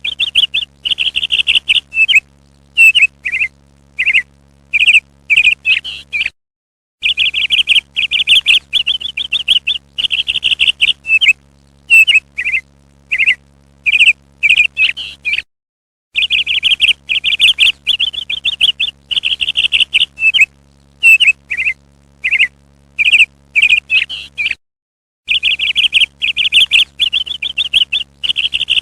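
Parrot calls: fast runs of shrill chirps followed by separate short chirps, the same sequence repeating about every nine seconds with a brief dead gap between repeats. A low steady hum under the calls drops out in each gap, the sign of a looped recording.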